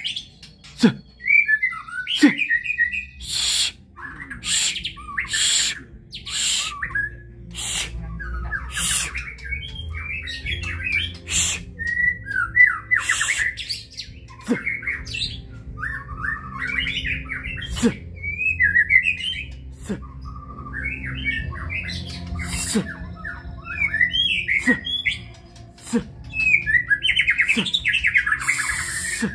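White-rumped shama (murai batu) singing a long run of short, varied warbled phrases one after another. Short sharp noises come between the phrases, and a low steady hum runs underneath.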